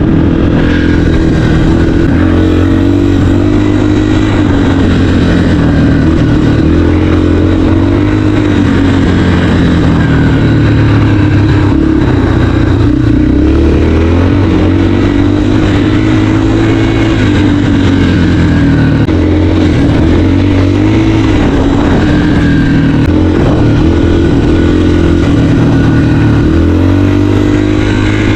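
Dirt bike engine running while ridden, its pitch rising and falling over and over with the throttle.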